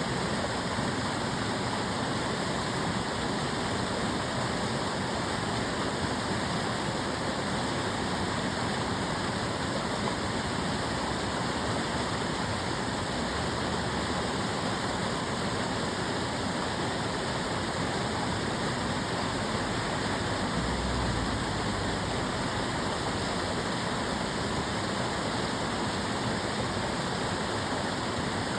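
Water of the Tamagawa Jōsui aqueduct canal flowing steadily, a constant rushing with no change over the whole stretch.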